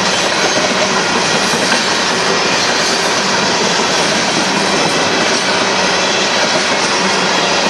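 Union Pacific covered hopper cars of a freight train rolling past on steel wheels and rail, a loud, steady rush of noise.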